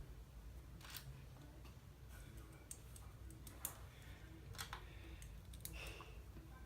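Small plastic LEGO pieces clicking faintly as they are handled and pressed together, with a few sharp clicks scattered through.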